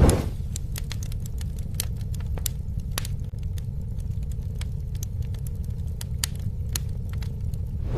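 Campfire burning: scattered sharp crackles and pops from the burning wood over a steady low rumble.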